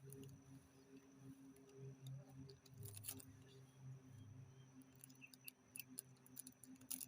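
Near silence: a faint steady hum with a few scattered light clicks.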